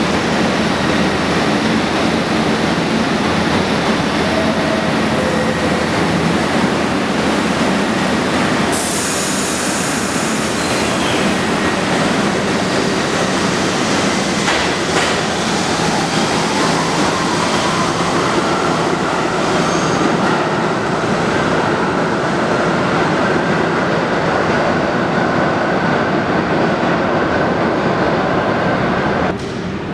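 R62A New York City Subway train running at the platform, a loud steady rumble of cars and wheels on the rails. About nine seconds in there is a burst of high hiss, and through the second half a thin whine climbs steadily in pitch. The sound cuts off suddenly near the end.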